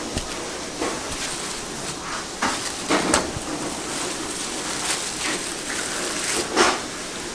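Kitchen work sounds during yakgwa making: scattered knocks and clatters of utensils and equipment over a steady hiss.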